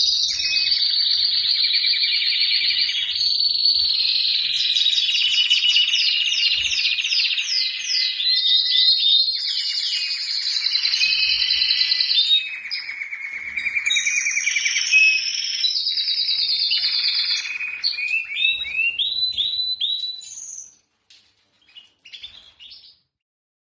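A male domestic canary singing a long, continuous song of rapid trills and repeated note runs. It breaks off about twenty seconds in, followed by a few soft notes. This is the song of a male in breeding condition.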